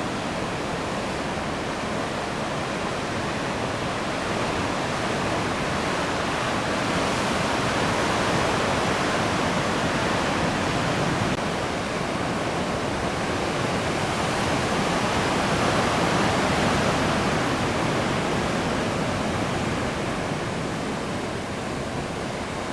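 Heavy typhoon-swell surf breaking continuously, a steady wash of noise that swells louder twice, about a third of the way in and again past the two-thirds mark.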